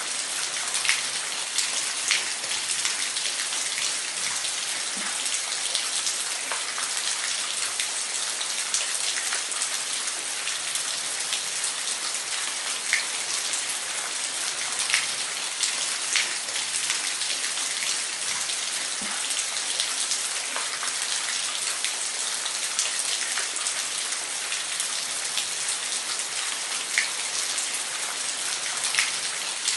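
Steady hiss of falling water with scattered sharp splashes, one every second or two.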